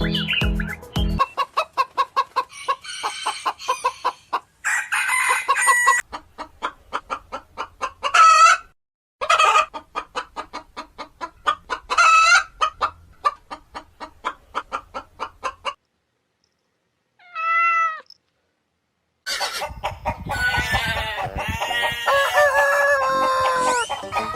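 Chickens clucking in a rapid, steady run of short clucks, broken by a few louder calls. After a brief pause there is a busier stretch of overlapping calls near the end.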